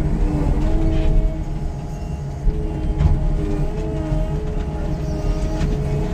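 Heavy demolition machinery running under load: a steady low engine rumble with a wavering whine over it, and a few sharp knocks.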